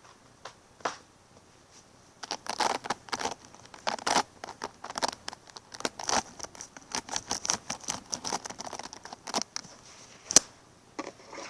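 A dense, irregular run of small crackling clicks and taps close to the microphone for several seconds, then one sharp click near the end.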